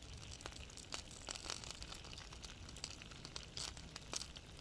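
Foil parcel of steak, potatoes and onions sitting on hot campfire coals, its contents bubbling and sizzling inside. Heard as faint, irregular crackles and pops over a low hiss.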